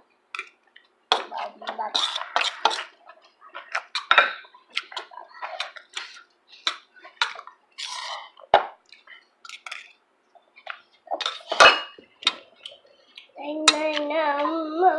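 Spoons and cutlery clinking and scraping against dishes during a meal: many short, sharp clicks scattered irregularly, with brief bits of talk between them. Someone starts singing near the end.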